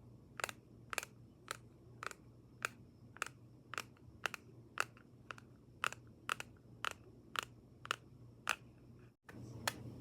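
Crisp, evenly spaced ASMR tapping, about two sharp taps a second. A brief dropout just after nine seconds breaks it off, followed by one more tap.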